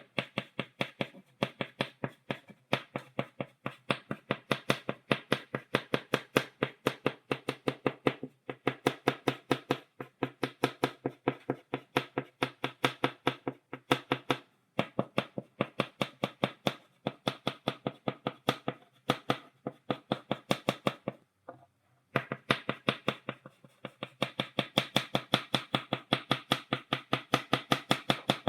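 Chalk tapped rapidly against a blackboard in stippling, about five sharp dry taps a second in an even run, with a short pause about three quarters of the way through.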